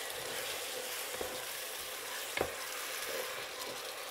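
Chopped tomatoes and an onion-spice base sizzling in a pot as a wooden spatula stirs them, a steady hiss with a couple of light knocks of the spatula against the pot.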